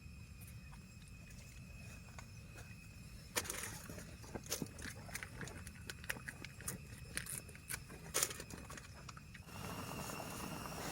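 Light clicks and knocks of cooking gear being handled, a few seconds in and running on for about six seconds, over a steady low rumble. Near the end a steady hiss sets in.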